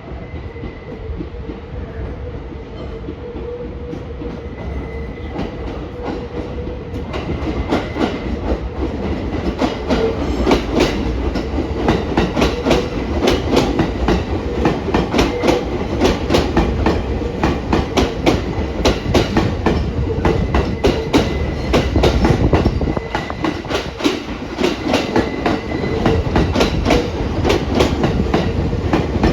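A train running on the rails, its wheels clacking rapidly over the rail joints; the clacking sets in and grows louder about seven seconds in.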